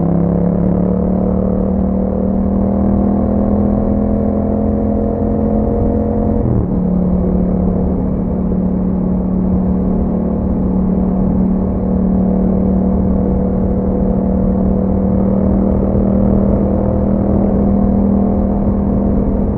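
2021 Yamaha MT-07's parallel-twin engine running under way through an Akrapovic exhaust with a dB killer. The engine pitch climbs gradually for about six seconds. A quick gear change then drops it, and it holds steady for the rest.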